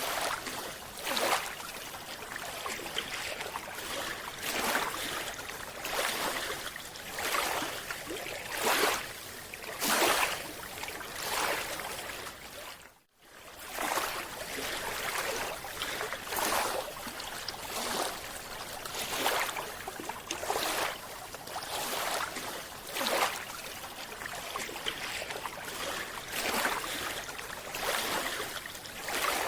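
Underwater sound of a scuba diver's regulator: hissing with bursts of exhaled bubbles that surge about every one and a half seconds. A brief dropout comes about thirteen seconds in.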